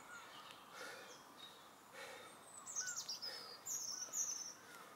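Faint outdoor birdsong: several high, quickly falling chirps in the second half, with a run of smaller repeated chirps near the end, over light background noise.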